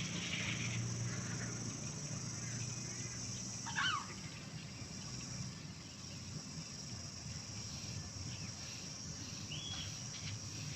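Rural outdoor ambience with a steady high insect drone. A short bird call sounds about four seconds in, and another near the end.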